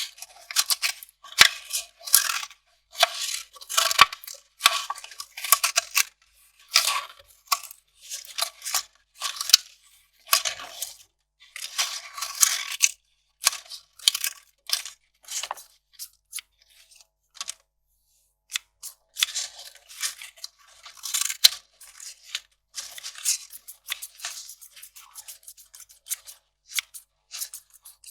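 Kraft paper being torn and crinkled by hand, in a run of irregular crackling rips and rustles. The sounds are thinner and more scattered in the later part, after a brief pause.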